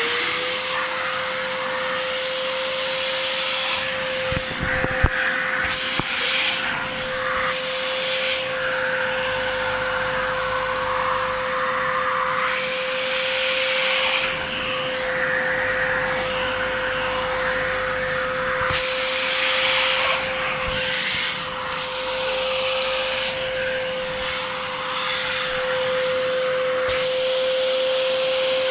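Arnica Hydra Rain Plus washing vacuum cleaner switching on, its motor whine rising quickly and then holding at one steady pitch, over a loud rush of suction noise that shifts in texture every few seconds.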